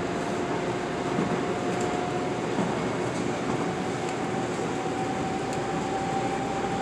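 Metro-North M8 electric multiple-unit train running at speed, heard from inside the passenger car: steady running noise with a faint whine that edges slightly up in pitch.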